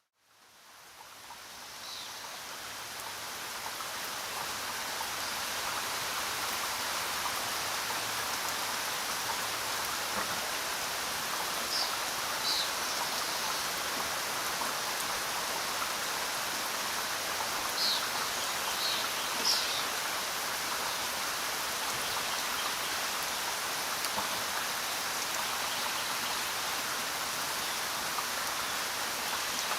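Steady rain falling, fading in from silence over the first few seconds. A few brief high-pitched peeps sound partway through.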